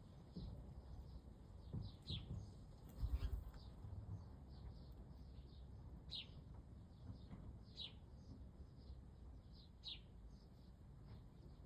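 Birds chirping in the background: short, high calls that slide downward, one every second or two. A low rumble swells briefly about three seconds in.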